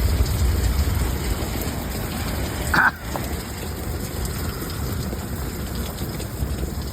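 Heavy thunderstorm rain falling in a steady hiss, with a low rumble in the first second or so. A short high-pitched sound comes about three seconds in.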